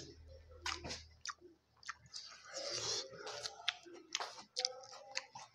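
Close-up chewing of a mouthful of rice and fish, with wet mouth clicks and smacking sounds.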